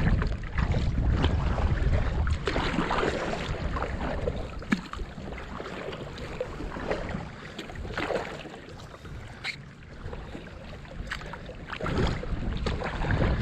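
Kayak paddle strokes splashing and dripping in choppy river water, with wind rumbling on the microphone. Irregular small splashes come through the steady water and wind noise.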